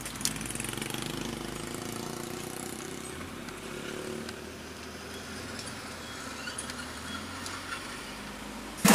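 Volkswagen Voyage's engine running steadily at low revs, heard from inside the cabin as the car rolls slowly along.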